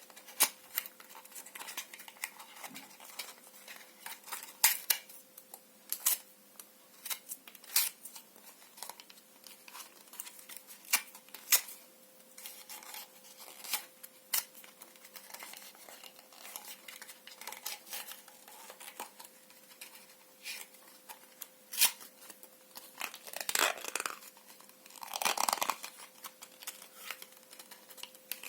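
Paper and cardboard being torn and crumpled by hand: sharp crackles and rustles throughout, with a couple of longer rips near the end.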